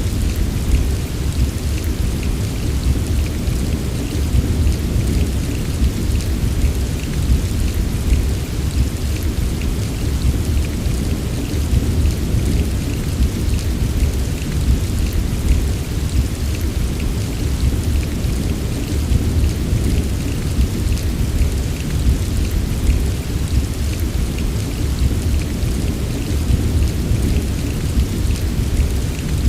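Heavy rain falling steadily: a dense hiss dotted with the small ticks of drops, over a constant deep low rumble.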